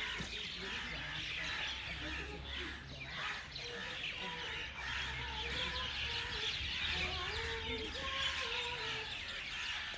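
Many birds chirping at once in a dense, continuous chatter, with lower calls that bend in pitch through the middle and near the end.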